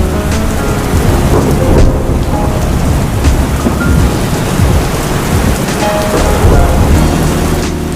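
Heavy rain pouring steadily, with a deep low rumble underneath and scattered drops ticking through.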